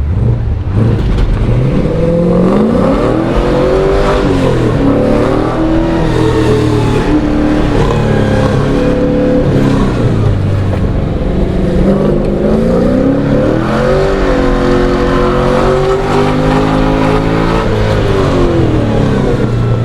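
LS V8 engine in a BMW E36 revving up and down under hard driving, its pitch climbing and dropping several times as the throttle goes on and off through the corners.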